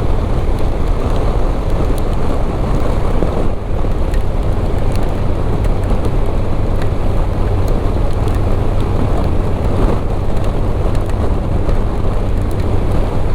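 Motorcycle cruising at a steady speed in the rain: a steady engine drone under heavy wind rush, with scattered sharp ticks of rain striking the camera.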